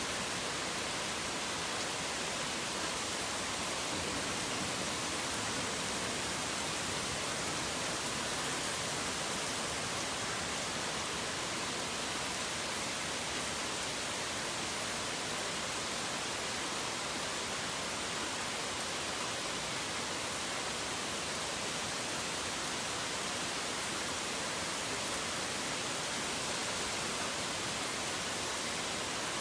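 Steady heavy rain: a dense, even hiss with no single drops, thunder or birdsong standing out.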